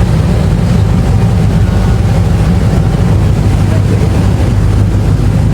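Passenger ferry's engines running at cruising speed with a steady, loud low drone.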